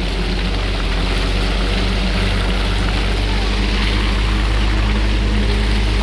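Concrete mixer truck's diesel engine running steadily, a loud, even drone.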